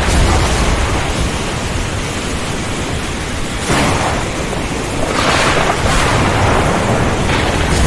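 Heavy rainstorm: a dense, steady roar of rain and wind with a low rumble underneath, swelling louder about four and five seconds in.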